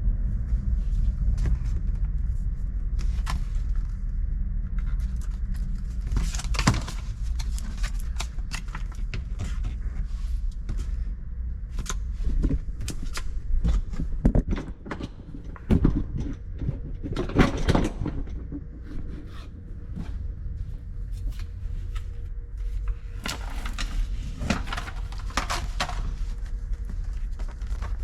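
Scattered clicks, knocks and short scraping sounds of hands-on work on car trim and panels, over a steady low rumble, with the busiest stretches near the middle and again near the end.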